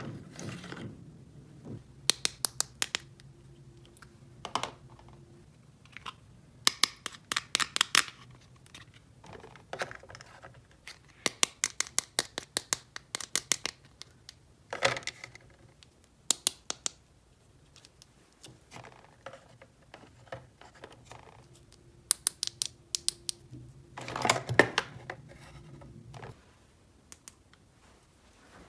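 Small plastic toy pieces clicking and tapping as they are handled and fitted together, in quick clusters of sharp clicks with short pauses between.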